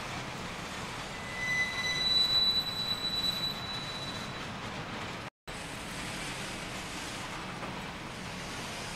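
Freight train cars rolling past with a steady rumble of wheels on rail. A high-pitched wheel squeal rises over it from about a second and a half in until about four seconds in. The sound cuts out briefly about five seconds in, then cars go on rolling past.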